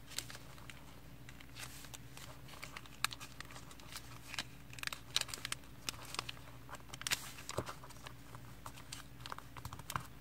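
Origami paper being folded and creased by hand: scattered soft crinkles, rustles and light taps of the sheet, over a faint steady hum.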